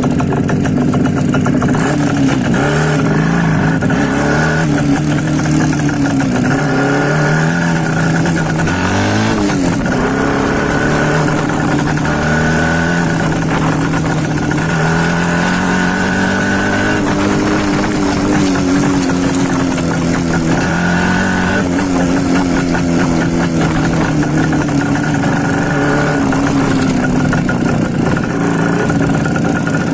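IZH Jupiter 5 two-stroke twin motorcycle ridden with the baffles pulled out of its mufflers, so the exhaust is loud and open. Its engine pitch rises and falls again and again as it accelerates and changes gear.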